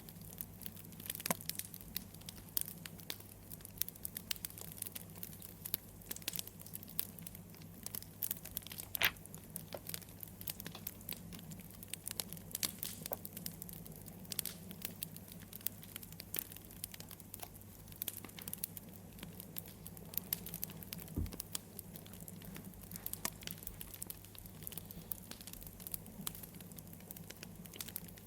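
Wood fire crackling: irregular snaps and pops over a steady low rumble, with a sharper pop about nine seconds in.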